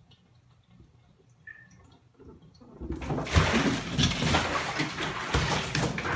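Rushing, splashing water starts suddenly about three seconds in, after a very quiet stretch, and goes on loud and steady.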